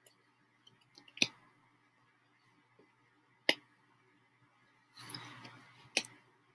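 Three sharp clicks: about a second in, midway, and near the end, with a brief rustle just before the last one.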